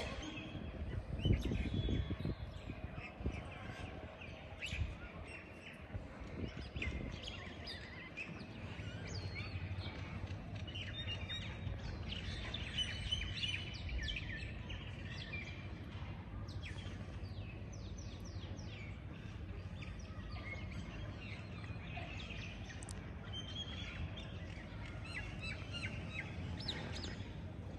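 Small birds chirping and calling in many short, quick notes, on and off throughout, over a steady low background rumble.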